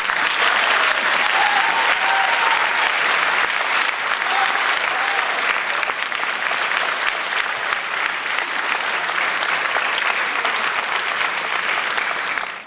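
Crowd applauding steadily, a dense clatter of claps that starts and stops abruptly as if edited in.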